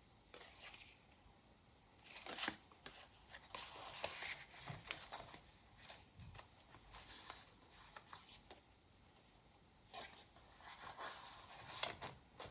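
Paper and card rustling softly as the pages, tags and fold-out elements of a handmade junk journal are handled and turned, in short spells of small flaps and clicks with a brief lull about two-thirds of the way through.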